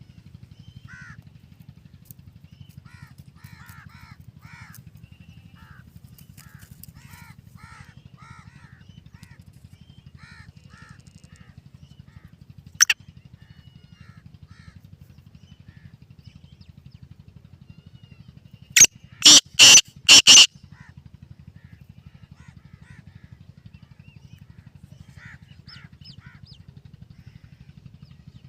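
Black francolin calling: one loud, harsh note, then about six seconds later a loud, grating four-note call. Faint chirping of small birds comes earlier, over a steady low hum.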